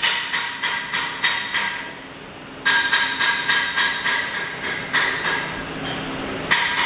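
Hammer tapping on metal in a quick, even rhythm of about four strikes a second, breaking off briefly about two seconds in and then going on.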